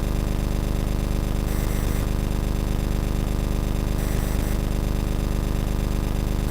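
A steady, low buzzing hum made of several even tones, with hiss on top, that does not change. The uploader takes it for a strange sound picked up around a crystal set in the ground.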